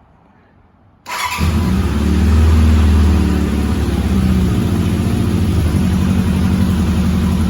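1988 Honda CB750 Custom's air-cooled inline-four engine starting cold on choke: the starter turns it over briefly about a second in, it catches at once and runs louder for a couple of seconds, then settles to a steady fast idle. The engine is still cold and not yet running smoothly.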